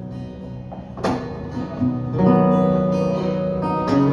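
Acoustic guitar strumming chords between sung lines of a song, with strokes ringing on. It gets louder from about two seconds in.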